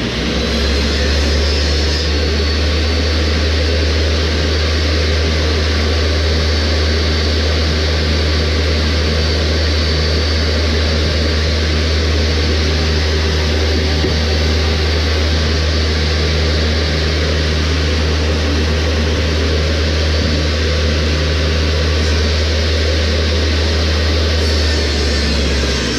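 Woodshop power tool motor running steadily at full speed, a loud even hum with a broad whir over it.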